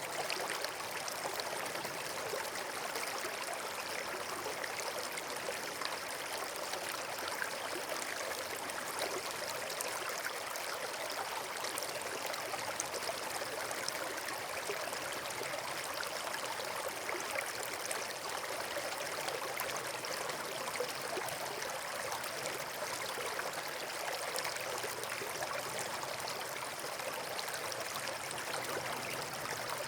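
Steady rushing of running water, like a stream or small waterfall: an even, unbroken wash of sound.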